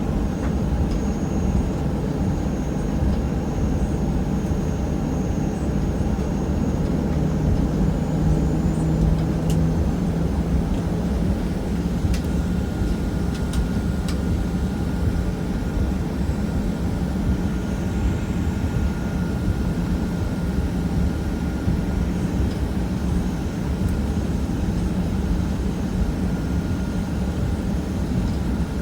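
Cabin noise of a Boeing 737-800 on the ground with its CFM56 jet engines at idle: a steady low rumble and hum, with a faint higher steady whine for a stretch in the middle.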